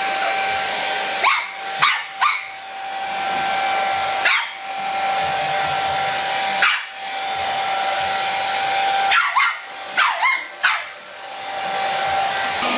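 A dog barks in short clusters over the steady whir of an electric motor, like a hair dryer or vacuum cleaner running.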